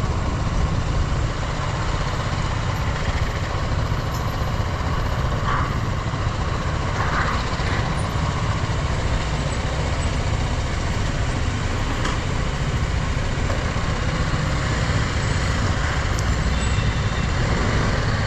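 Motorcycle on the move: steady engine and wind-rush road noise.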